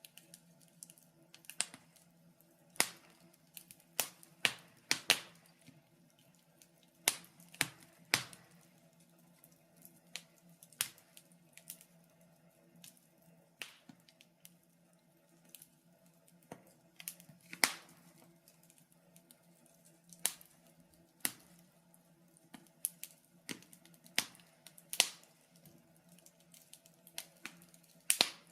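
Wood fire crackling in a fireplace: irregular sharp pops and snaps of varying strength, sometimes in quick clusters, over a faint steady low hum.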